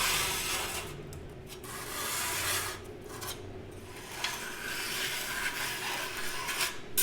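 Three long rubbing strokes across sheet steel, the first about a second long and the last more than two seconds long.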